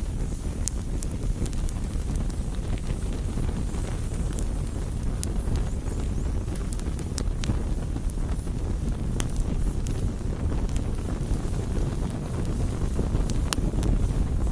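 Campfire crackling: scattered sharp pops and snaps of burning wood over a steady low rumble.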